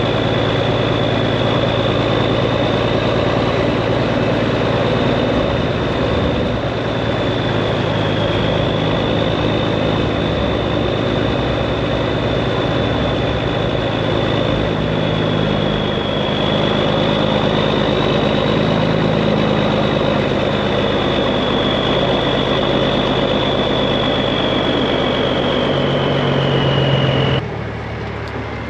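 Straight-piped Peterbilt 389 semi truck's diesel engine running while driving, a steady drone with a high whine over it. The engine note changes about halfway through, and the sound drops off suddenly near the end.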